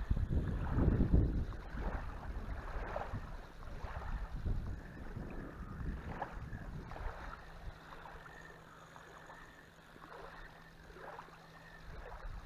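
Gusts of wind buffeting the microphone on a riverbank, strongest in the first half and easing off after that. A faint steady low hum comes in about halfway through.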